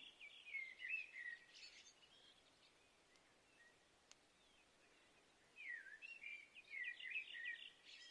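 Songbird singing faintly in two short phrases of quick chirping notes, the second opening with a downward slur about six seconds in, with a quiet gap between them.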